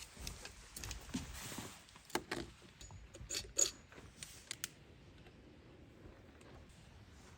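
Small hard objects being handled: a handful of sharp clicks and clinks in the middle, then a faint steady background.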